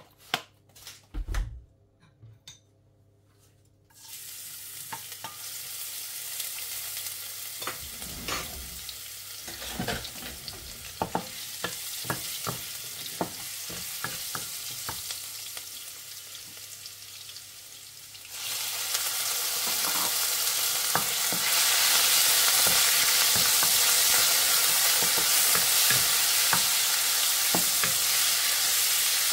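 Frying in a nonstick wok: after a few light knocks, chopped onion starts sizzling in hot oil about four seconds in, with scrapes and taps of a wooden spatula as it is stirred. A little past halfway the sizzle jumps much louder as diced raw chicken goes into the pan and is stirred.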